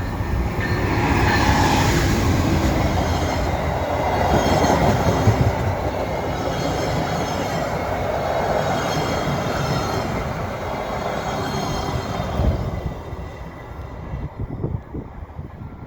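Via Rail passenger train of LRC cars passing close by, wheels rumbling on the rails with high, steady squealing tones. The sound fades away about thirteen seconds in.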